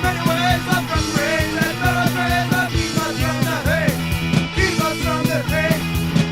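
Punk rock band recording: a sung vocal line over a steady drum beat and bass.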